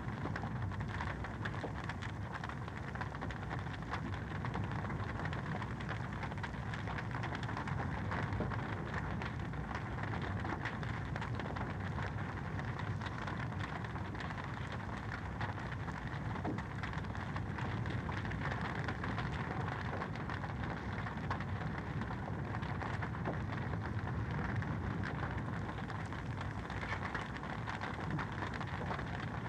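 Fireplace fire crackling steadily: a dense run of small pops and snaps over a soft, even hiss.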